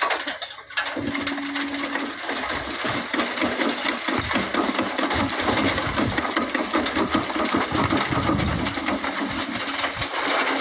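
Sand and gravel pouring from an excavator bucket into a dump truck's steel bed, a dense gritty rattle that starts suddenly and keeps on for about ten seconds.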